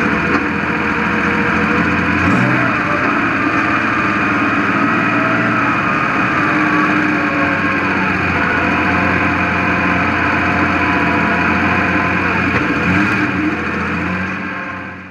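Speedway stockcar engine heard from inside the cockpit, running steadily, fading out near the end.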